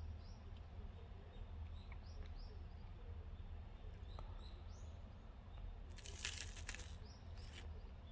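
Faint bird chirps in the background over a low steady hum. About six seconds in comes a short crackling crunch, and a briefer one follows, as a Lotte Crunky chocolate bar is handled.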